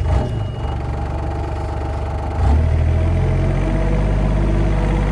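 Engine of an older hydraulic work machine catching and running, then throttled up to a higher, louder speed about two and a half seconds in.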